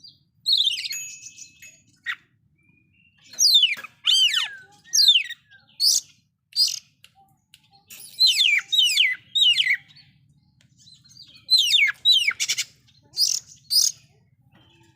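Oriental magpie-robin (kacer) singing loudly: clusters of quick, sharp whistled notes that sweep downward in pitch, with pauses of a second or two between phrases.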